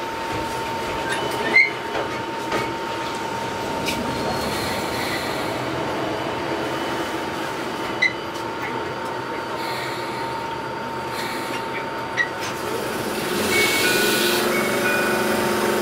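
Enoden 500-type electric train running slowly, heard from the cab: a steady running noise with a thin steady tone, and a few sharp clacks as the wheels cross rail joints and points. Near the end the running noise rises and a motor whine comes in as the train picks up speed.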